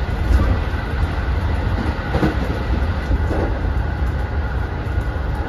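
Interior running noise of a JR West 207 series commuter EMU at speed, heard inside the KuHa 206 cab car: a steady low rumble of wheels on rail with an even noise of the car body and track.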